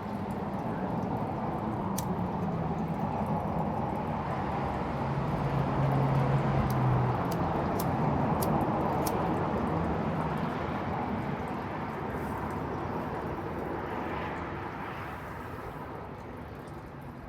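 An engine passing by, its hum and rush swelling to the loudest about seven seconds in and then slowly fading away, with a few sharp clicks over it.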